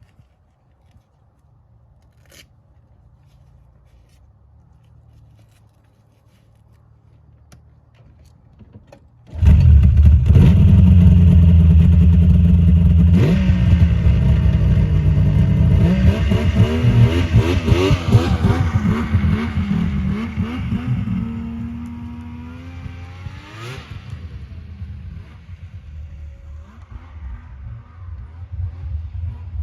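Yamaha V-Max triple two-stroke snowmobile idling faintly, then launched hard at full throttle about nine seconds in: a sudden loud jump in engine sound that holds high for several seconds, its pitch bending, then fades as the sled pulls away. The launch tests whether the track still ratchets on the drive.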